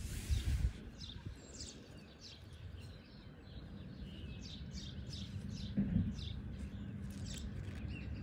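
Small birds chirping in the background, a string of short falling chirps repeating throughout, over a steady low rumble on the microphone with a couple of brief low bumps.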